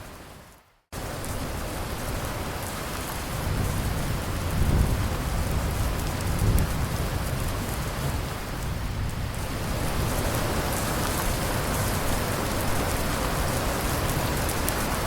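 Steady rain falling, with a low rumble of thunder swelling in the middle. Just under a second in, the rain fades to a brief silence and then cuts back in suddenly, like a loop seam in the recording.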